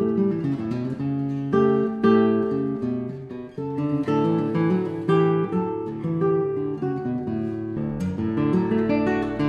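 Acoustic guitar music: plucked and strummed notes.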